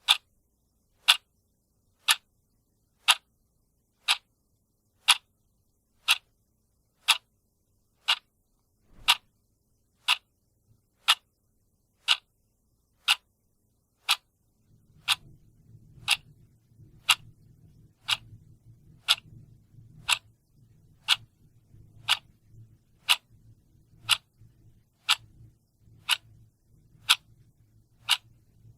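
Clock ticking steadily, one sharp tick a second. A faint low rumble comes in underneath about halfway through.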